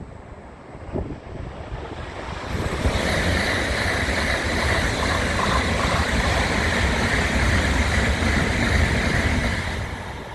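A Tokaido Shinkansen train passing through the station at speed without stopping: a rushing noise that builds over a couple of seconds, holds for about seven seconds, then falls away quickly near the end.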